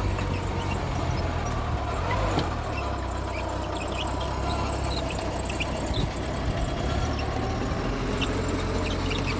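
Diesel engine of a small Mitsubishi G2 (BD2G) crawler bulldozer running steadily, with scattered short high squeaks.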